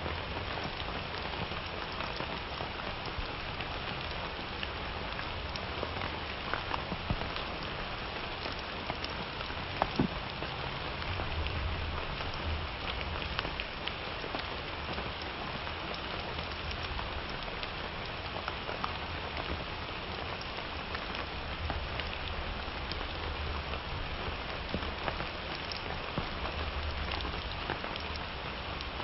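Steady summer rain falling on surfaces, an even hiss with scattered louder drops ticking and plinking through it, a couple of sharper ones about seven and ten seconds in.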